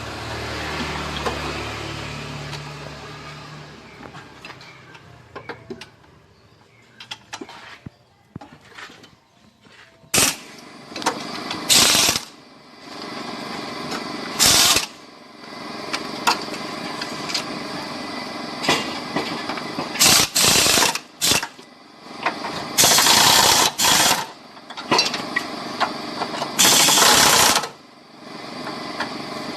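Engine running for the first few seconds, then repeated loud bursts of a power tool, each about a second long.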